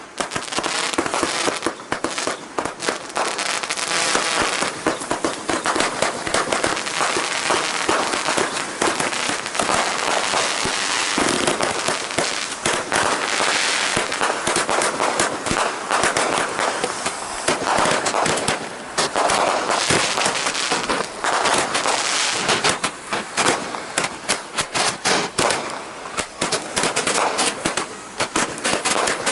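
Close-range fireworks going off in a dense, continuous barrage of sharp bangs, pops and crackling, with Roman candles firing.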